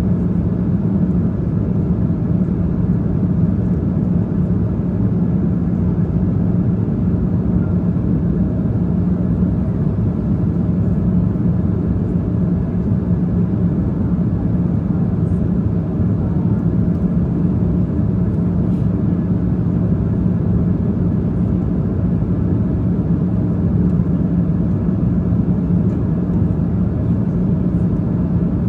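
Steady jet engine and airflow drone inside an airliner cabin in flight, with a constant low hum under an even rush of noise.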